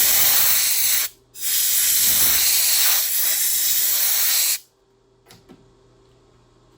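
Compressed-air blow gun hissing in two long blasts, the first ending about a second in and the second lasting about three seconds, typical of clearing chips from a freshly milled slot. Near the end only a faint steady shop hum remains.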